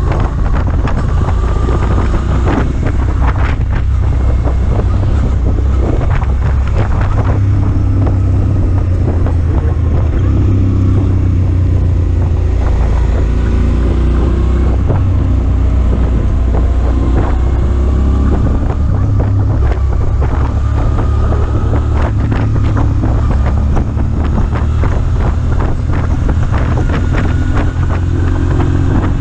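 Motorcycle on the move: heavy wind buffeting on the microphone over the engine, whose pitch rises and falls as the rider speeds up and slows down.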